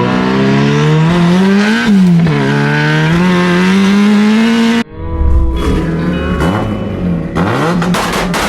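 Nissan 240SX's turbocharged KA24DET four-cylinder accelerating, its pitch climbing, dropping at a gear change about two seconds in, then climbing again. It cuts off abruptly about halfway through and gives way to a choppier mix of sounds with sharp clicks.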